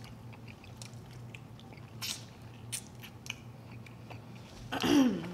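Close-miked eating: buffalo chicken wings being bitten and chewed, with a few sharp wet clicks and smacks. Near the end there is a short, loud voiced sound that falls in pitch.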